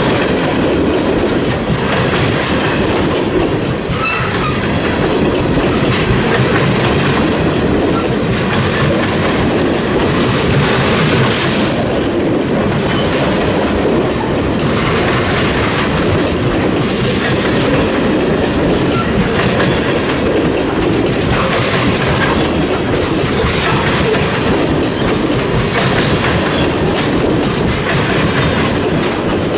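Freight train cars rolling steadily past, their wheels clicking over rail joints with a continuous clickety-clack.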